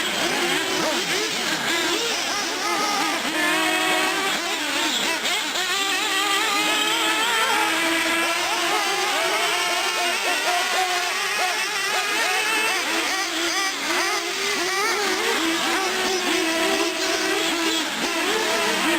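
Several nitro-powered R/C truck and buggy engines, small two-stroke glow engines, running together. Their pitches rise and fall over one another as the throttles open and close.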